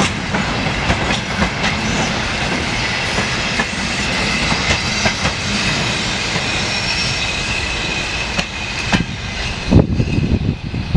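Railway wagons of a maintenance train rolling past on the track, wheels clattering over the rail joints with a faint high squeal from the wheels. The rolling noise drops away about nine and a half seconds in as the train clears, leaving an uneven low rumble.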